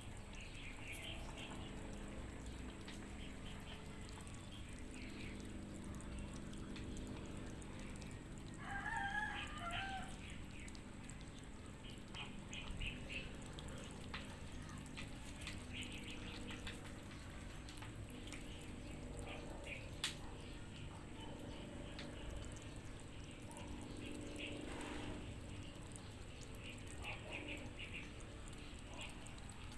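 Cats chewing and crunching dry cat kibble mixed with wet food, in short runs of rapid crunches that recur every few seconds. A brief wavering animal call sounds about nine seconds in.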